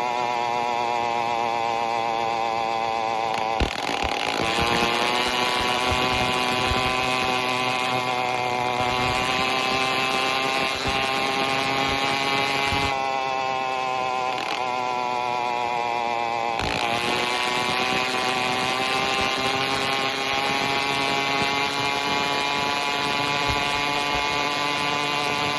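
Phantom 85 two-stroke motorized-bicycle engine running with no exhaust pipe during a ride, a steady buzz. Its pitch drops suddenly and climbs back up twice, about four seconds in with a sharp click, and again about sixteen seconds in.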